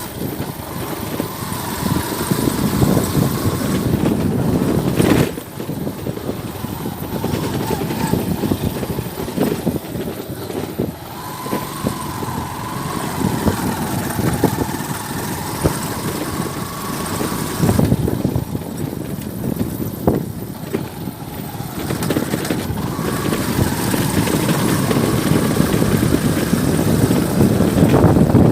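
A motor vehicle running on the road: engine and road noise that swells and dips, with a faint wavering whine.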